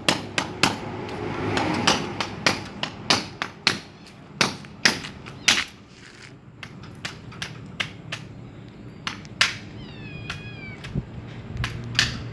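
Repeated hammer blows knocking at an irregular pace, a few a second, with a short high wavering cry about ten seconds in.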